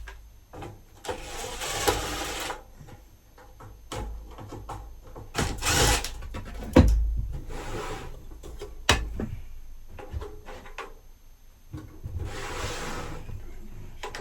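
Handling noise from an electric furnace being dismantled: parts are scraped and rubbed in several stretches, with a few sharp clicks and knocks. The loudest knock comes about seven seconds in.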